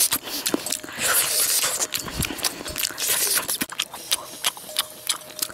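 Close-up chewing and mouth smacking, with quick irregular clicks and crackles as cooked fish is eaten and picked apart by hand.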